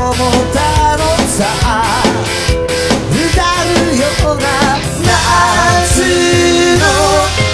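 Rock song with drums and guitar, and a singing voice that comes in more clearly in the second half.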